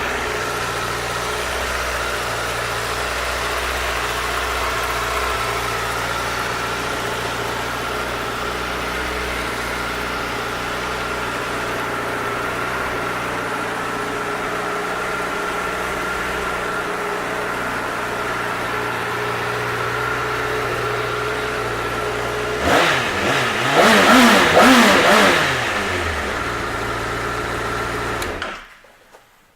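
Honda CBR1000RR's inline-four engine idling steadily, then revved a few times with rising and falling pitch about three-quarters of the way through. It settles back to idle and is shut off just before the end.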